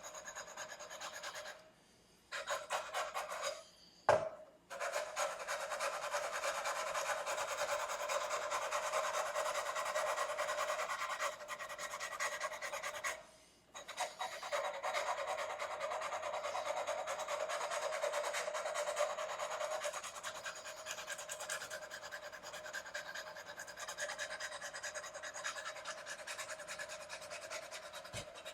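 Abrasive paper on a fret-levelling bar rubbed back and forth over a guitar's metal frets, a steady rasping that stops briefly twice. A sharp click about four seconds in.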